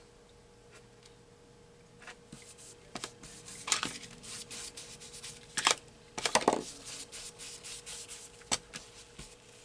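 Paper and small craft tools handled on a work table: scattered rustles, taps and clicks, the loudest near the middle, over a faint steady hum.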